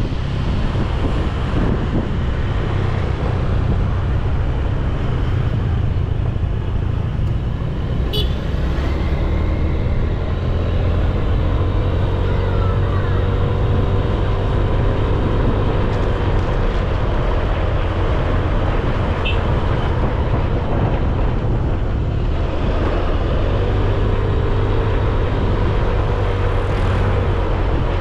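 Motorcycle engine running while riding, over a steady low rumble. The engine's pitch drifts gently up and down as the speed changes.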